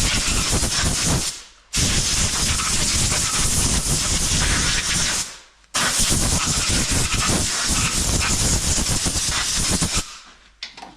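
Compressed-air blowgun hissing in three long blasts of about two to four seconds each, blowing the cleaned piston and ring grooves dry.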